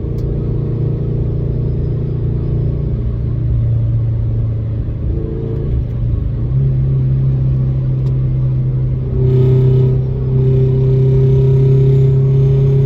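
Exhaust of a Toyota 86-platform car's flat-four boxer engine, running with the exhaust resonator removed: a steady low drone whose pitch steps up slightly about halfway through and grows louder over the last few seconds.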